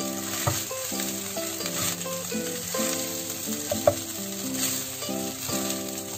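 Fried rice sizzling in a nonstick wok as a spatula stirs and tosses it, with scraping and knocks of the spatula against the pan, one sharp knock about four seconds in. A melody of background music plays underneath.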